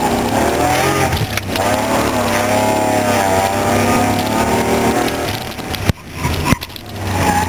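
Dodge Stealth R/T non-turbo's V6 engine heard from inside the cabin during an autocross run, its pitch rising and falling as the driver works the throttle between cones. The engine note breaks off sharply twice, about six seconds in and half a second later.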